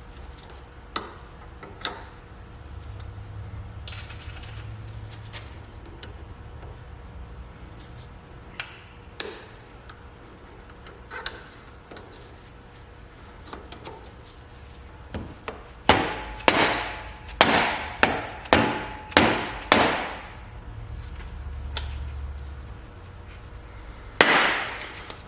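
Hammer striking metal parts of a Corvette torque tube: a few scattered light taps, then a quick run of about eight sharp, ringing strikes at roughly two a second a little past halfway, and one more near the end.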